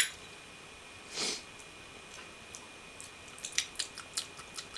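African grey parrot making a short hiss about a second in, then a quick, irregular run of sharp beak clicks over the last couple of seconds. A faint steady high whine runs underneath.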